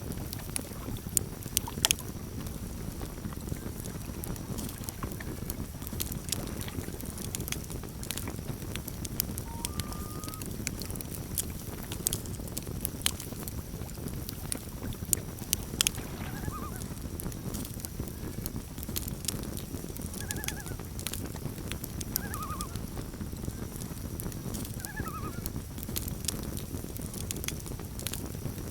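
Campfire crackling, with sharp pops scattered throughout over a steady low rush of the flames. Faint wavering loon calls come in a few times in the second half.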